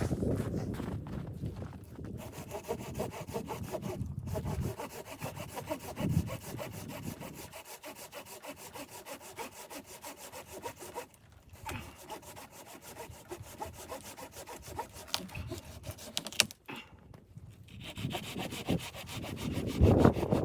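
Hand saw cutting through wood in steady back-and-forth strokes, pausing briefly a few times.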